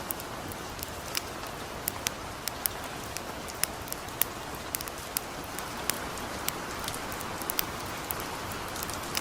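Light rain falling as a steady hiss, with sharp, irregular crackles and pops of a burning wood fire, about two a second.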